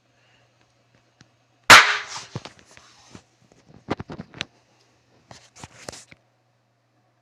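A small firecracker going off with one loud, sharp bang about a second and a half in, followed by several fainter sharp snaps.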